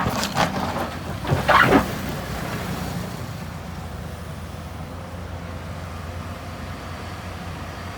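Heavy earthmoving machine's diesel engine running steadily, with a few loud clanks and scrapes of rock and metal in the first two seconds.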